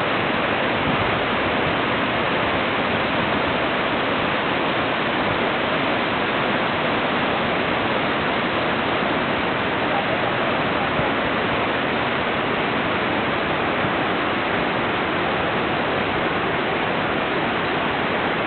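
Waterfall cascades pouring, a steady, even rush of falling water.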